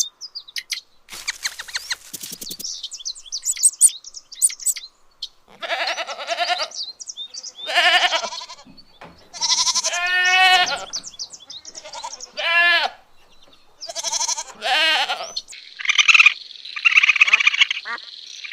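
A series of separate animal calls, one after another, each about a second long, several with a wavering, shaky pitch. Rapid clicks and short high chirps come first.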